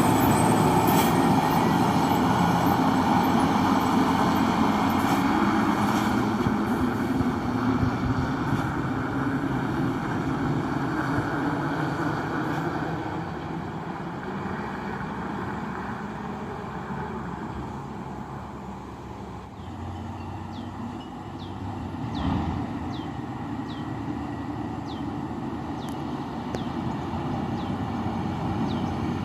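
Diesel dump truck engine labouring up a steep hill under a heavy load, loud at first and fading as it pulls away, then swelling again as another vehicle approaches.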